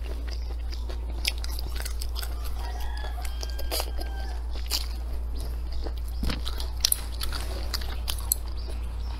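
A person chewing and biting food close to the microphone, with many short, sharp crunching clicks. A steady low hum runs underneath.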